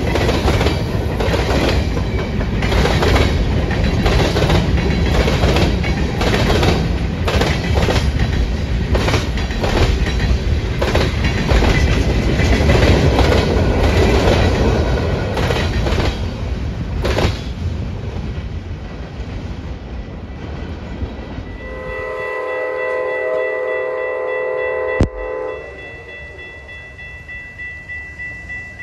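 Freight cars of a long manifest train rolling past close by, wheels clacking rhythmically over the rail joints, the sound dying away over about the first twenty seconds. About twenty-two seconds in, an approaching train sounds a multi-note air horn in one long blast of about four seconds.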